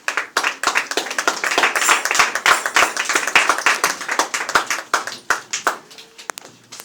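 Congregation applauding a choir: many hands clapping densely at first, thinning out and dying away about five to six seconds in.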